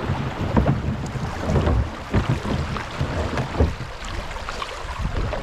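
Kayak moving down a creek: water splashing and irregular knocks from the paddle and hull, with wind buffeting the microphone.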